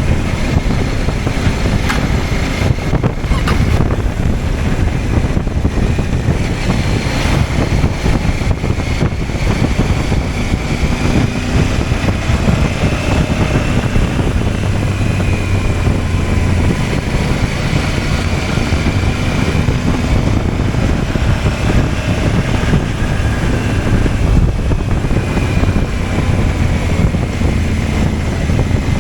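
CFMOTO 800MT's parallel-twin engine running while riding, under steady wind rush and road noise, its pitch drifting up and down with the throttle.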